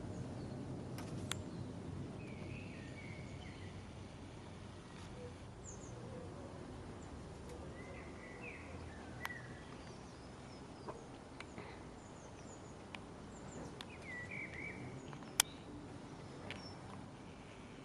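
Three short bursts of bird chirps, a few seconds apart, over a steady low outdoor rumble, with a few sharp clicks, the loudest near the end.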